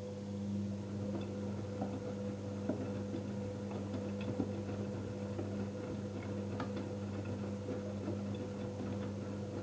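Electrolux washing machine's drum motor running a wash-cycle turn of about ten seconds: a steady hum that comes on and then stops, with light scattered clicks and knocks from the tumbling load.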